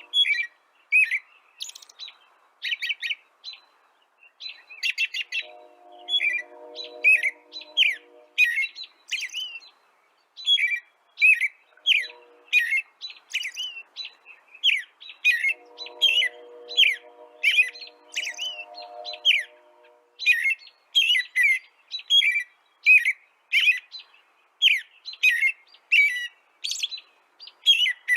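Songbird chirping continuously: a run of short, downward-sliding chirps, several a second, mixed with bursts of fast rattling trills. A faint low steady tone comes and goes in the background.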